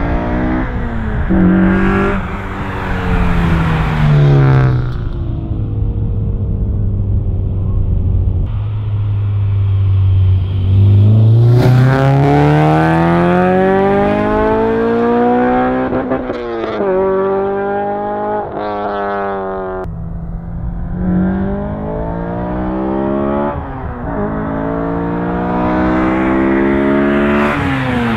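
2011 Honda Civic Si's four-cylinder engine, fitted with an aftermarket intake, header and exhaust, accelerating hard through the gears: the revs climb, drop suddenly at each shift and climb again, several times over, with a few seconds of steady low running in between.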